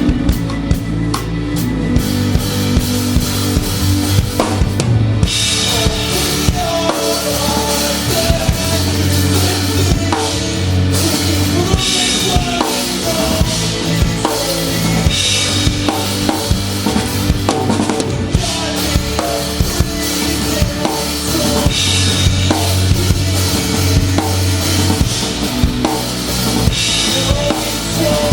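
Live rock band playing an instrumental passage, the drum kit close and prominent: steady kick and snare beat with a bass line and guitar notes over it. The cymbals get much louder about five seconds in.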